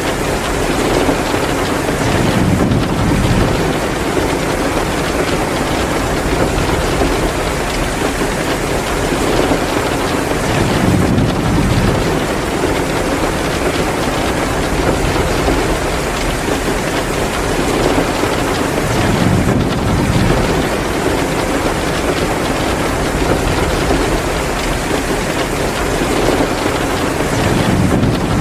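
Heavy, steady downpour rain, with a deeper low swell coming back about every eight to nine seconds.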